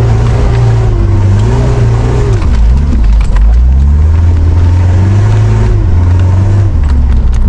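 Mitsubishi Pajero Dakar's engine running under load, its pitch rising and falling with the revs. The revs dip about two and a half seconds in, climb and hold, then drop again near the end.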